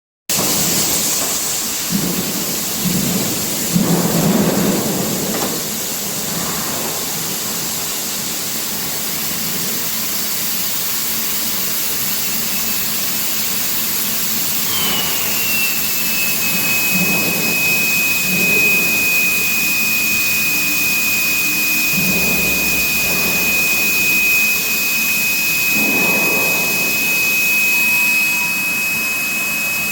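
Induction hardening machinery running with a steady noisy hiss and occasional low rumbles. About halfway in, a high-pitched whine sets in, slides down briefly and then holds one steady pitch.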